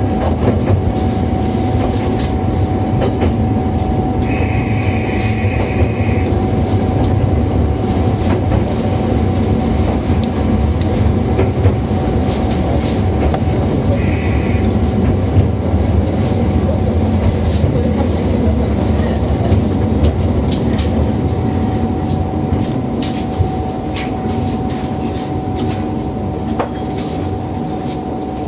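Diesel railcar running along the track, heard from the cab: a steady engine drone with clicks of the wheels over rail joints. Two short high tones sound, about four seconds in and again, more briefly, about fourteen seconds in, and the running eases slightly near the end.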